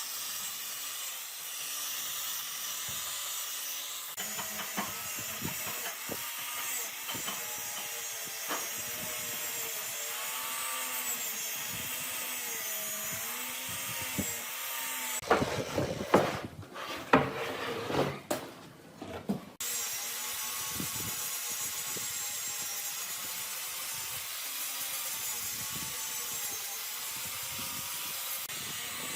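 Electric power tool working wood, its motor whine wavering in pitch as the load on it changes. About halfway through it gives way for a few seconds to a run of knocks and scraping on wood, then the tool sound returns.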